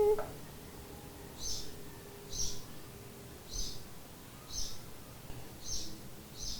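Short, high chirps repeating about once a second, like a small bird calling in the background, over faint room tone.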